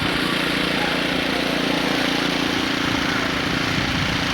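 An engine running steadily: a constant hum with an even hiss over it.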